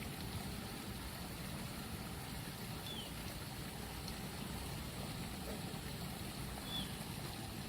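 Steady low rumble of idling vehicle engines at a railway level crossing, with two brief high chirps about three seconds apart.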